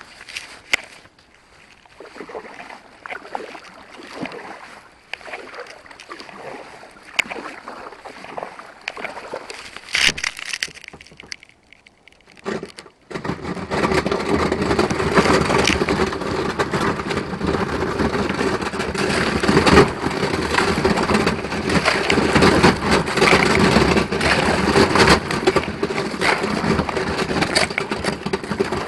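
A kayak's hull breaking through a sheet of river ice, with ice cracking, crunching and scraping along the hull. Scattered cracks come first, then about halfway through it turns to loud, dense crunching that keeps on.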